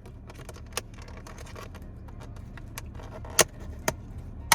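Takeaway food container being handled and opened: a scatter of sharp plastic clicks and crackles, the loudest about three and a half seconds in and again at the end, over a steady low rumble.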